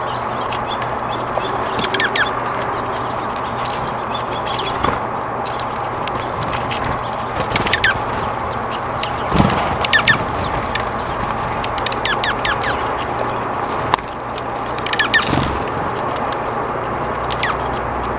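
Small birds chirping in short, quick calls every second or two over a steady background hiss.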